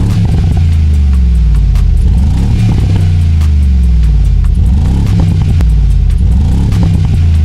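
Synthetic exhaust sound from an iXsound active sound system's emitters, giving a deep engine note that is revved up and down several times.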